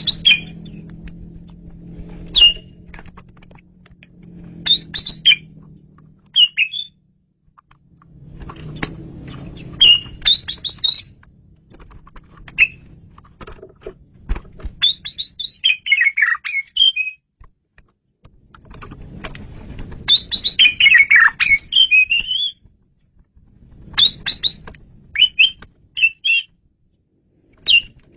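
Asian pied starling (jalak suren) singing: short phrases of sharp whistles and chattering notes every couple of seconds, with a longer, louder run of notes about twenty seconds in.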